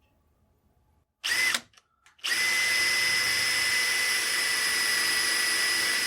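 Electric drill with a small wood bit starting a hole in a walnut rifle buttstock. It gives a brief burst about a second in, then runs steadily with a constant high whine from about two seconds in.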